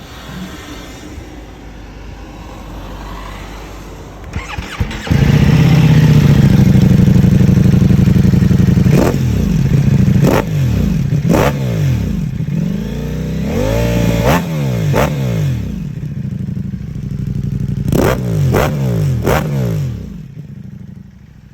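Ducati Multistrada V4S Sport's V4 engine through an Akrapovic exhaust. It runs quietly at first, then becomes loud and steady about five seconds in. From about nine seconds it is revved with a series of sharp throttle blips, the pitch shooting up and falling back. It dies away near the end.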